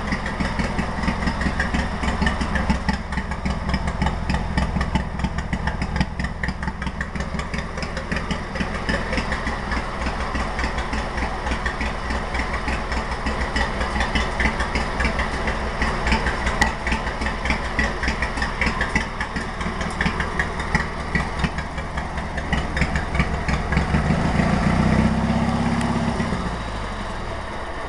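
Craftsman 16-horsepower lawn tractor engine with an upright exhaust stack, idling just after being started, with a steady rapid firing beat. Near the end it runs louder for a couple of seconds, then eases back.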